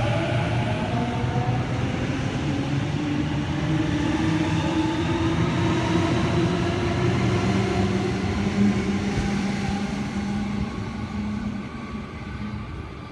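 Sydney Trains Series 1 Waratah electric train accelerating away from the platform: a traction-motor whine rising in pitch over rumbling wheel and rail noise, fading near the end as the train draws away.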